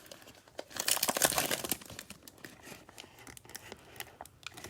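Cellophane wrapper of a Mosaic cello pack of trading cards crinkling and tearing as it is opened, most intense for about a second starting just over half a second in, followed by lighter rustles and small clicks of the cards being handled.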